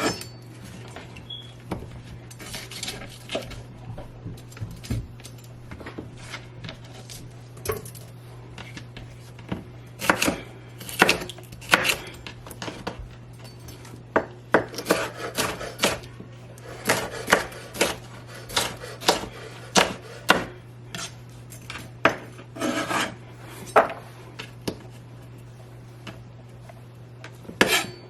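A knife chopping into a tender coconut's husk: a run of irregular sharp strikes, sparse at first and coming thick and fast from about ten seconds in. A steady low hum runs underneath.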